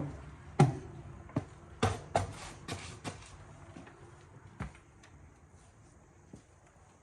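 A series of sharp, irregular knocks and clicks in a small room, about eight in all: the loudest and closest together in the first three seconds, then sparser and fainter.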